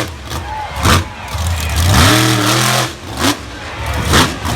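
Monster truck engine revved hard in repeated bursts, about four in all. The pitch sweeps up fast each time: short blips around one, three and four seconds in, and one longer held rev around two seconds in.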